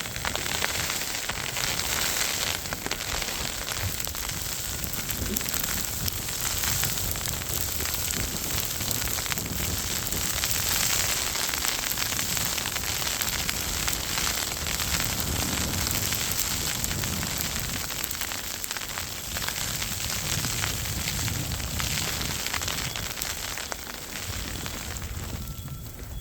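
Storm wind rumbling on the microphone with a dense, steady crackling patter of driven snow striking it.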